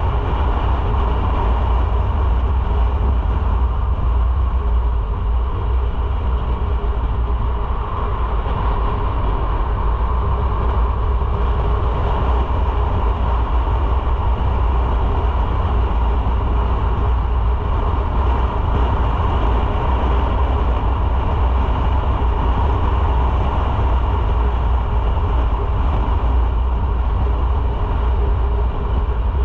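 Motorcycle on the move: a steady, loud rumble of engine and road noise, with heavy wind noise on the microphone.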